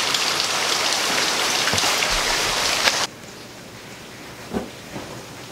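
Steady rain falling on wet pavement, cut off abruptly about three seconds in, leaving a quiet room with a soft knock or two.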